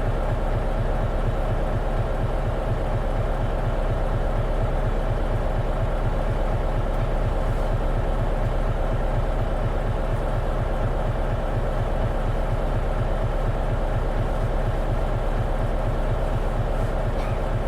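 Diesel engine of an Isuzu Erga KL-LV280N1 city bus running steadily, heard from inside the bus, with an even low pulsing throb and no change in pitch.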